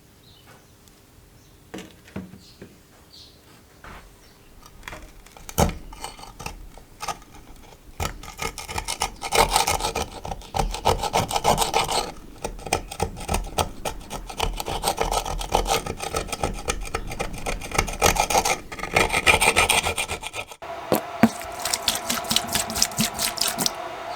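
Hand abrasive cleaning of engine parts: rapid rasping, scrubbing strokes. A few light taps and scrapes come first, then the strokes build to a fast, steady rhythm about a third of the way in, pause briefly, and change to a steadier scrubbing near the end.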